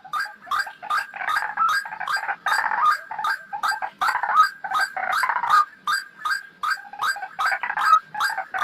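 White-breasted waterhen (ruak-ruak) calling: a fast, unbroken run of harsh, croaking notes, about three or four a second.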